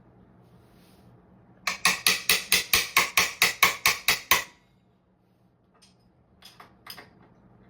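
A hammer striking a 21 mm wrench in a quick run of about a dozen sharp metal-on-metal blows, about five a second, tightening the axle nut of an e-bike hub motor. A few light clicks follow near the end.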